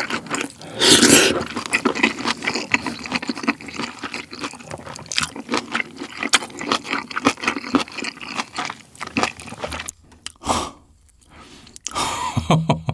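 Close-miked eating sounds of pork-belly kimchi stew: a slurp from the spoon about a second in, then wet chewing with many small clicks and lip smacks, pausing about ten seconds in.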